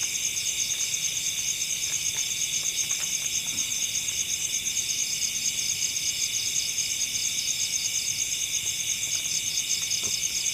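Dense chorus of forest insects, a steady high trilling with a fast pulse, with a few faint clicks beneath it.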